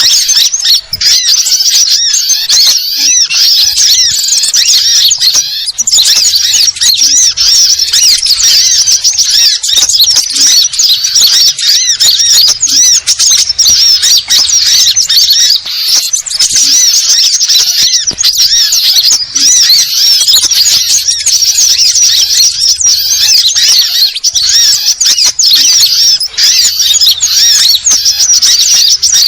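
Dense chorus of sunbirds twittering and chattering, many high, rapid calls overlapping without a break, as on a bird-lure (pikat) recording.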